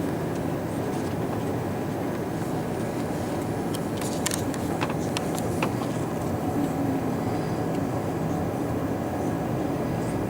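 Steady cabin noise inside an Airbus A340-300 on the ground before takeoff: a low hum and rush from the aircraft's systems, with a few light clicks around the middle.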